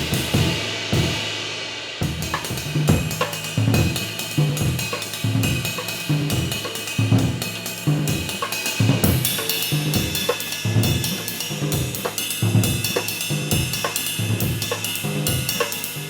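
Drum kit grooving, with a 24-inch handmade bronze ride cymbal ringing over the snare and bass drum. The cymbal rings out alone briefly near the start before the beat comes back in. From a little past halfway the cymbal wash grows much denser.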